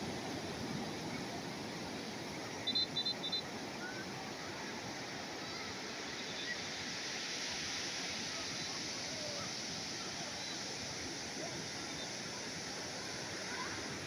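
Steady wash of calm sea waves. About three seconds in come three short, high chirps in quick succession.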